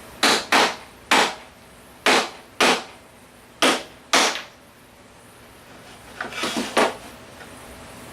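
Sharp knocks of hard objects, mostly in pairs about half a second apart, then a quicker rattling cluster of knocks near the end.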